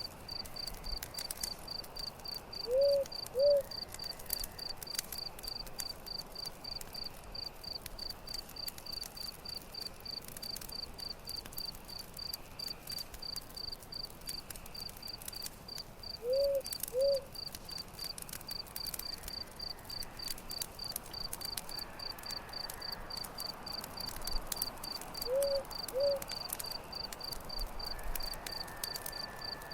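Night forest ambience: a cricket chirps in a fast, even pulse throughout, with scattered pops from a crackling campfire. A low two-note hoot sounds three times and is the loudest thing heard.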